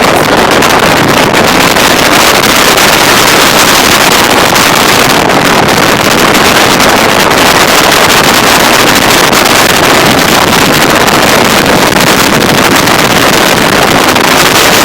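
Loud, steady wind rushing over the microphone, mixed with the road noise of the moving truck, heard from its open bed at speed.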